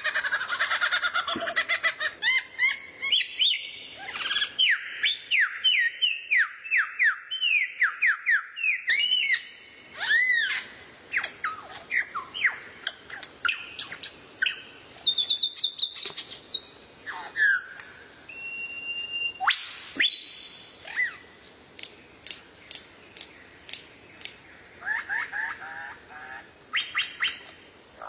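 Songbird singing a varied song: quick series of whistled notes dropping in pitch, then assorted chirps, short trills and a briefly held whistle, with pauses between phrases.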